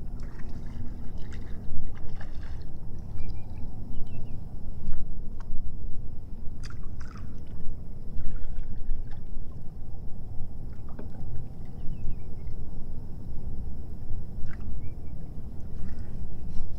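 Water lapping and sloshing against a fishing kayak, over a steady low rumble, with scattered small knocks and splashes; the sharpest comes about seven seconds in.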